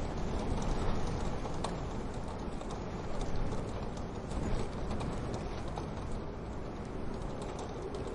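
Wood fire in a wood-burning stove crackling, with many small irregular pops and snaps over a steady low rushing noise.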